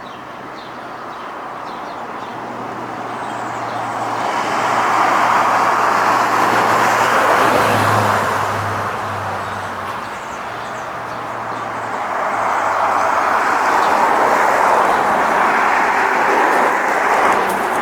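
Two road vehicles passing one after the other, their tyre and engine noise swelling up and fading away, about eight seconds apart.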